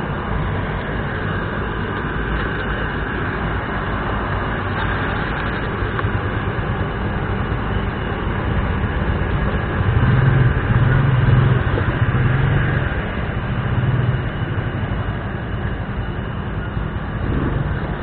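Motorcycle running along the road, a steady engine note under continuous riding noise. The engine gets louder for a few seconds about halfway through.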